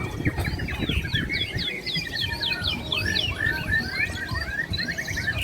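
Several caged white-rumped shamas (murai batu) singing at once in a bird-song contest: dense, overlapping runs of quick, sweeping whistled notes.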